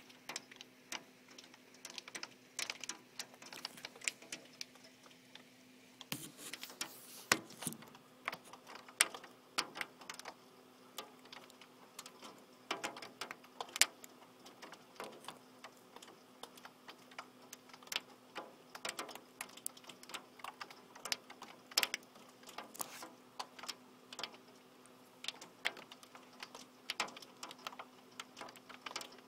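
Heavy rain and pea-sized hail striking a hard surface, heard as a constant irregular patter of sharp ticks and taps, some louder than others. A faint steady hum runs underneath.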